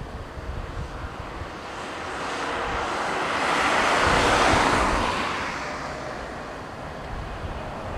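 Jet airliner passing by, its engine noise swelling to a peak about halfway through and then fading away. Wind buffets the microphone throughout.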